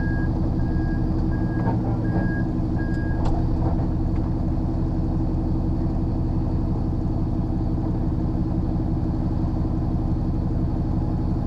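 Lorry diesel engine running steadily, heard from inside the cab. A reversing alarm beeps in short, evenly spaced beeps, about one every half second or so, then stops a little over three seconds in.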